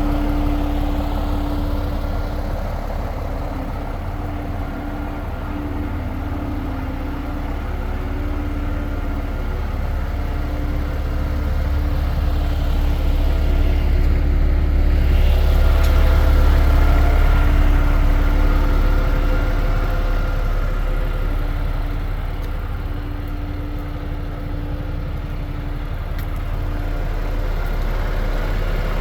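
DAF XF 440's PACCAR MX-13 straight-six diesel idling steadily, growing somewhat louder in the middle before easing back.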